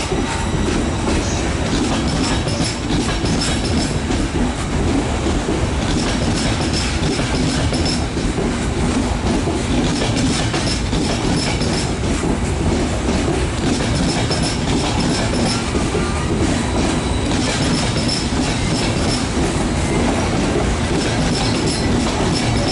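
Intercity passenger coaches rolling steadily past on the track, their wheels clattering over the rail joints, with a short high wheel squeal now and then.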